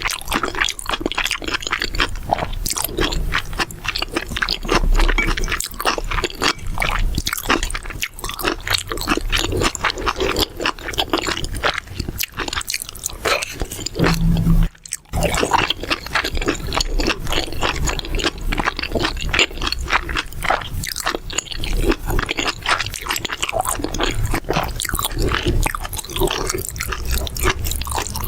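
Close-miked chewing and crunching of mala xiang guo (Sichuan spicy stir-fry), with wet, squishy bites and scraping in a dense stream of small clicks. The sound drops out for a moment about halfway through.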